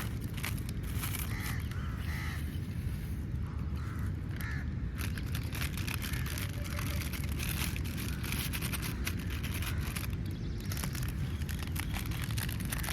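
Crows cawing, several harsh calls mostly in the first few seconds, over a steady low rumble and scattered crackling clicks.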